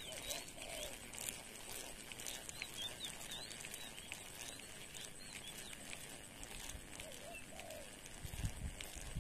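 Small birds chirping faintly, many short high chirps scattered throughout over a faint steady hiss. A few low thumps come near the end.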